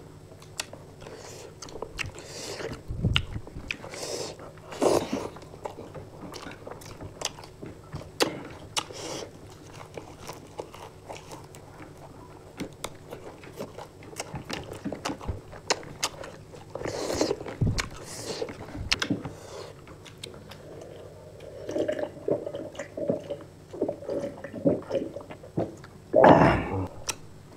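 Close-up eating sounds of two people eating rice and spicy chicken fry with their hands: wet chewing, biting and mouth smacks in a run of short, irregular clicks, with fingers working the rice on the plates.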